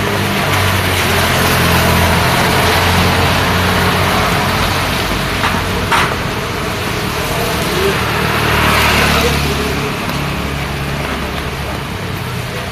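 Road traffic in the rain: vehicle engines running low and steady under an even hiss of rain and wet tyres, with a vehicle swelling past about two-thirds of the way through and a sharp click around the middle.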